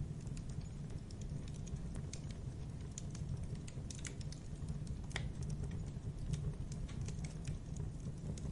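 Campfire burning with a steady low rumble and irregular crackles and pops of wood.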